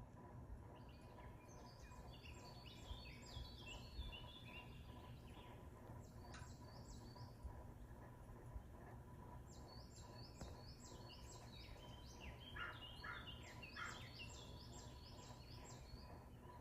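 Turkey gobbling: several bursts of rapid, repeated, falling high-pitched notes.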